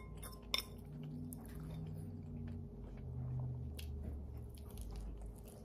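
Mouth chewing a spoonful of macaroni and cheese, soft and wet. A metal spoon clinks against the ceramic bowl once or twice near the start.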